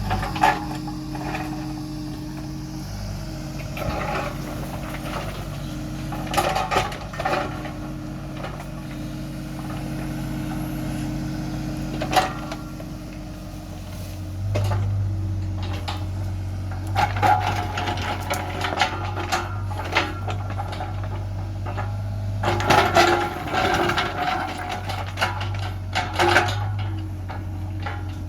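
Irregular knocks and clatters of hard objects, such as stones or building parts being handled, over a steady low machine hum that gets louder about halfway through.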